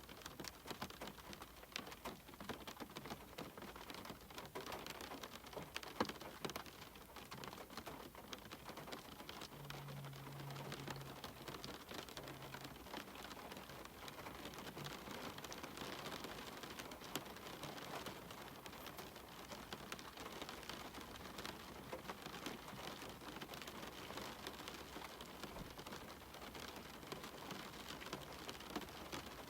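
Steady rain with many distinct drops tapping on a cabin window, with one sharper tap about six seconds in.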